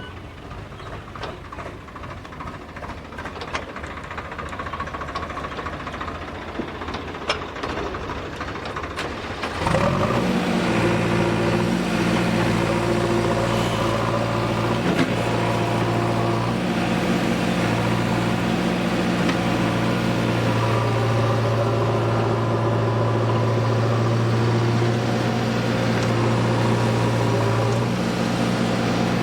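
Heavy diesel engine of farm or earthmoving machinery, a rumble growing louder with a few knocks, then about ten seconds in it suddenly becomes a louder, steady drone with a clear hum that runs on.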